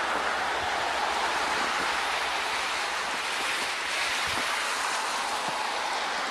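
A steady rushing noise with no clear pitch or rhythm.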